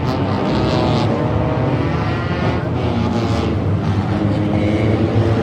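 Engines of a field of front-wheel-drive race cars running around a short oval track, several engines at once, their pitch rising and falling as cars go by.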